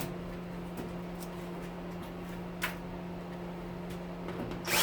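Steady hum of a stove's fan running, with a few faint metallic ticks and one sharper click about two and a half seconds in; a power drill cuts in again at the very end.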